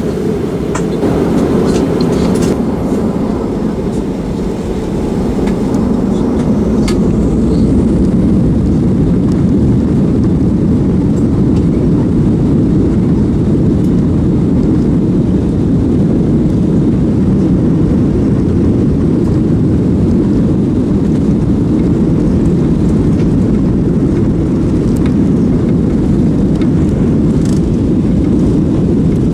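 Jet airliner engines heard from inside the cabin of a Boeing 737-900ER. A few light clicks and rattles come in the first seconds. About five seconds in, the engines rise to a loud, steady, deep noise that then holds. This fits the takeoff roll.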